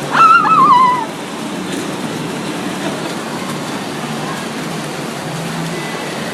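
Heavy rain falling steadily, a loud even hiss. In the first second a brief high, wavering cry sounds over it, falling in pitch.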